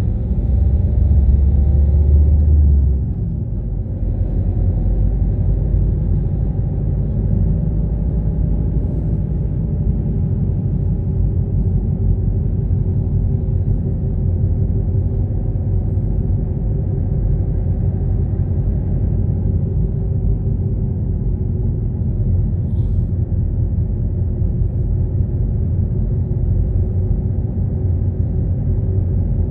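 Car driving: a steady low rumble of engine and road noise with a faint engine hum, deeper and louder for about the first three seconds.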